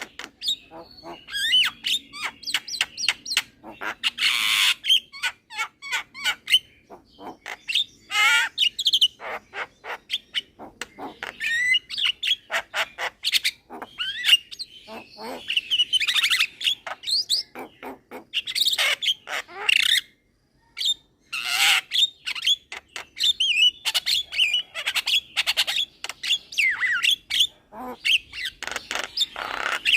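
Young Javan myna (jalak kebo) singing non-stop: a rapid run of chirps, whistled glides and harsh notes, broken once by a short pause about twenty seconds in.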